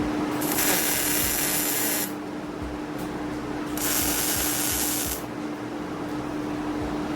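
Two hissing, crackling bursts of about a second and a half each, typical of MIG tack welds on a steel frame, over a steady machine hum.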